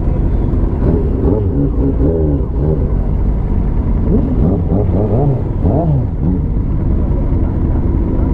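Many motorcycle engines running together, with several rising and falling revs about a second in and again between four and six seconds in, over a steady low rumble.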